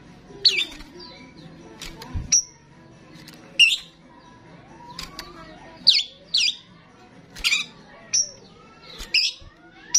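Starling calling busily: about a dozen sharp whistles and squawks, many sweeping downward in pitch, with short clicks between them.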